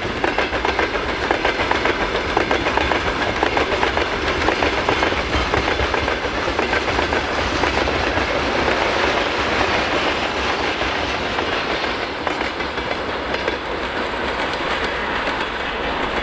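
Freight train wagons rolling past at speed, wheels clattering rapidly over the rail joints; the clatter eases a little toward the end.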